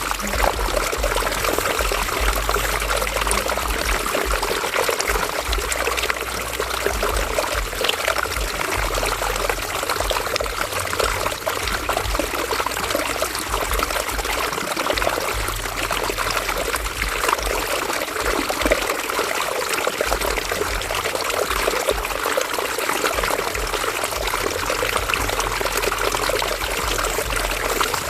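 River water running and trickling over stones, a steady, continuous rush and babble.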